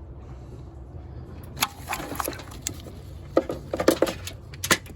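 Scattered clicks and light knocks of parts and wiring being handled, several close together near the end, over a steady low hum.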